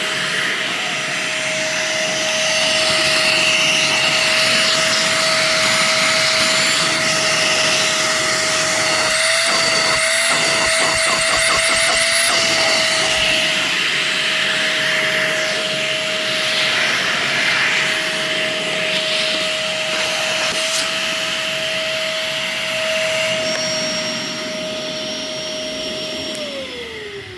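Simplicity Synchrony Premium upright vacuum running with a steady motor whine. Near the end the motor winds down, its pitch falling away.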